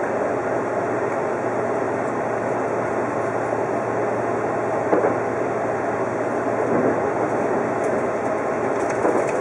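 Odakyu 50000-series VSE Romancecar electric express running along the line, heard from inside the front car as a steady rumble of wheels on rail. There are brief knocks about halfway through and again near the end.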